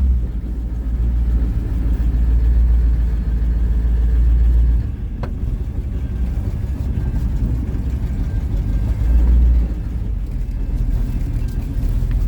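1940 Ford pickup hot rod on the move, its engine running with a deep low rumble that gets louder twice, from about two to five seconds in and again briefly around nine seconds. There is a single sharp click about five seconds in.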